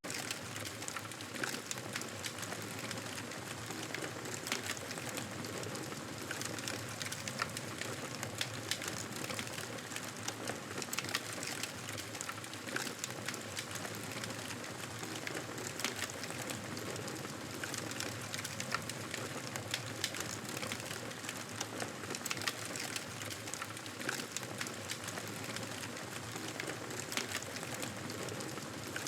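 Wood fire in a fireplace crackling steadily, with frequent small sharp pops over a constant soft hiss.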